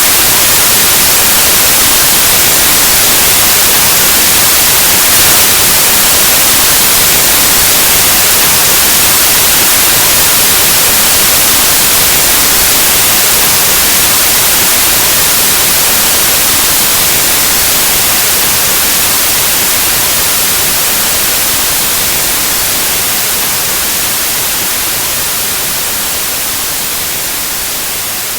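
Steady white noise, an even static hiss across all pitches, slowly fading out over the second half.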